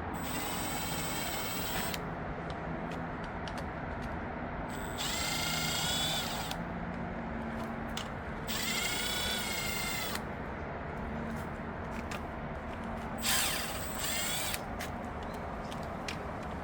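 Right-angle power tool whirring in four short runs, a couple of seconds each, some rising in pitch as it spins out the oil pan bolts on an LQ9 V8 block.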